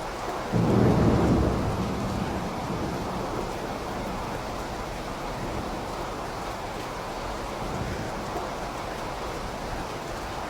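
Steady rain falling, with a deep rumble of thunder that starts suddenly about half a second in and fades away over the next few seconds.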